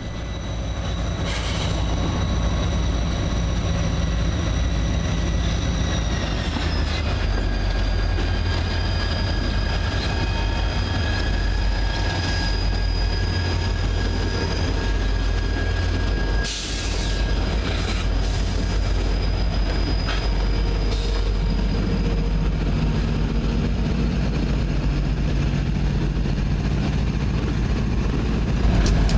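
Diesel freight locomotives passing close by, engines rumbling, with a steady high-pitched wheel squeal that drops a little in pitch about seven seconds in. A few brief clanks come from the passing train.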